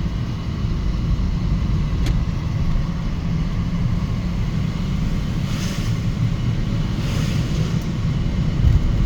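Steady low rumble of a vehicle driving on the road, with a faint hiss swelling briefly twice in the second half.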